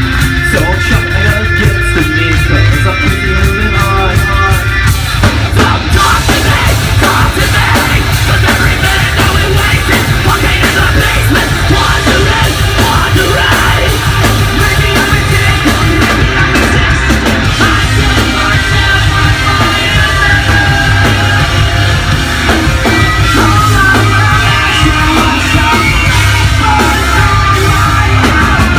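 Loud live rock band at full volume: guitar alone at first, then the full band with drums and bass crashing in about five seconds in, with yelled vocals over it.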